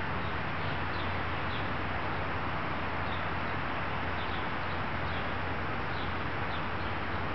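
Steady outdoor background noise with a low hum, and faint, brief bird chirps every second or two.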